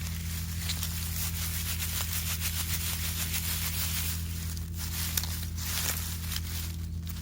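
Wood campfire crackling, with many small irregular snaps over a steady low hum.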